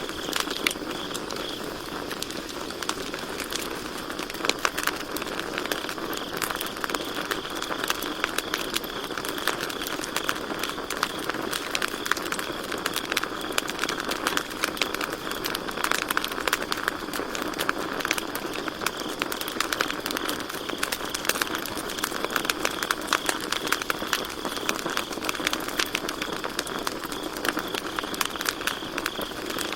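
Campfire crackling and popping in many quick, irregular snaps over a soft hiss, with crickets chirping steadily.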